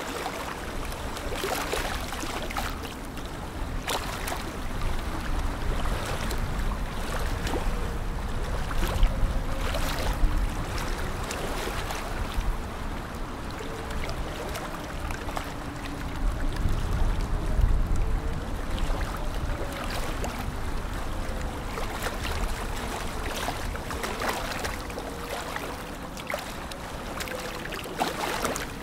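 Lake water lapping and splashing at the shore in small irregular slaps, with wind gusting over the microphone in low rumbles about a third and again about three-fifths of the way in. A faint wavering hum sits underneath.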